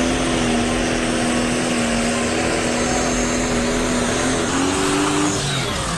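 A vehicle engine running hard at high, steady revs over loud mechanical noise. Its pitch steps up about four and a half seconds in.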